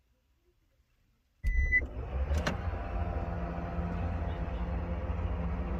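Short electronic beep, then a car engine running steadily, with a sharp click about a second after the beep.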